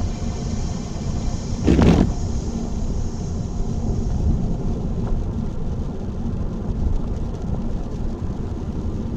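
Steady road noise and engine rumble of a car being driven, with one brief, louder rush of noise about two seconds in.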